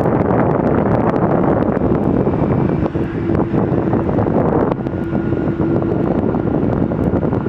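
Wind buffeting the microphone over the steady noise of an airliner's engines, with a faint steady whine. The hiss drops abruptly about two-thirds of the way in.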